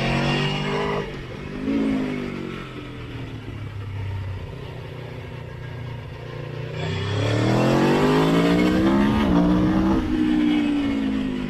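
Motorcycle engine under way on the road, revving up and dropping back twice in the first two seconds, then running lower and steadier for a few seconds. About seven seconds in it climbs in a long, strong rise in revs, which levels off and falls back near the end.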